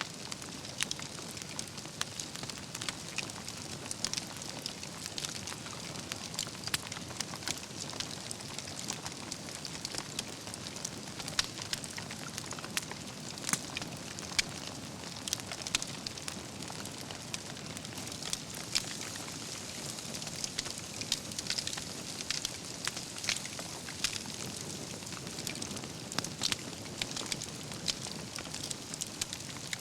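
Wood campfire burning: logs crackling and popping with frequent sharp irregular snaps over a steady hiss of flames.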